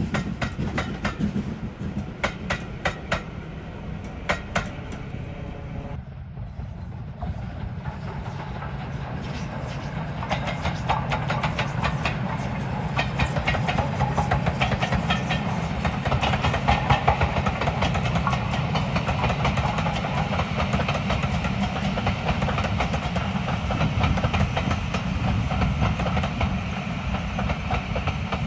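A train running on the rails: scattered wheel clicks at first, then after a short lull a rumble and a dense clatter of wheels over rail joints that grows louder from about eight seconds in and holds.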